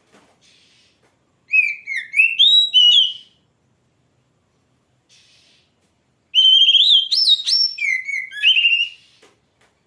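Oriental magpie-robin (kacer) singing: two loud phrases of quick, sliding whistled notes, the first about a second and a half in and a longer second one about six seconds in, with faint scratchy notes between them.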